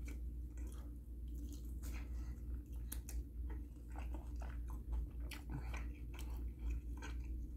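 A person chewing a bite of spicy fried chicken dipped in gravy close to the microphone: irregular crunching clicks over a steady low hum.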